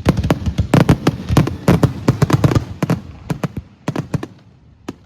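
Fireworks going off in a rapid string of bangs and crackles, thinning out to scattered pops over the last couple of seconds.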